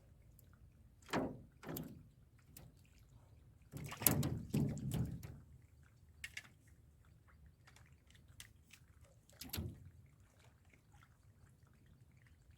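Water splashing in several separate bursts, the longest about four seconds in, with knocks between them.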